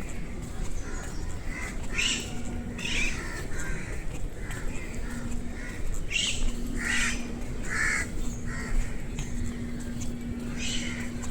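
Crows cawing, a series of harsh calls repeated every second or so, over a faint low hum that comes and goes.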